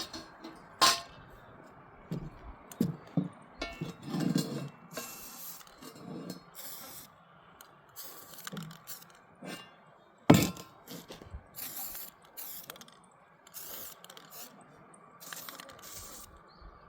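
Scattered knocks, clanks and clicks of hands-on work on a metal pot stand, with a few short stretches of hiss; one sharp knock about ten seconds in is the loudest.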